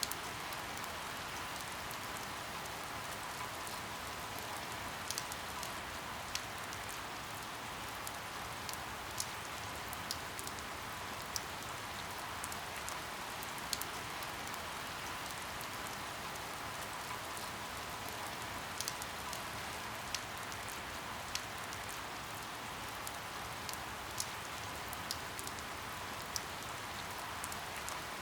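Steady rain falling, a constant hiss broken by scattered sharp drip ticks at irregular intervals.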